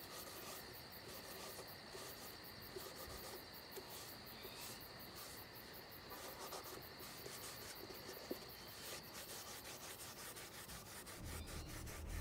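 Paper towel dampened with isopropyl alcohol rubbing over the spray-painted surface of a faux pumpkin, wiping the paint off the raised spots to blend it. Faint and scratchy, with a steady high insect trill behind it that stops about nine seconds in.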